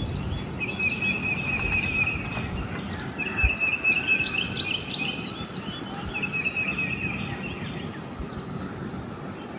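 Songbirds singing in the morning: one bird repeats a steady trill, about four times, with other birds chirping higher over it, all over a steady low outdoor rumble.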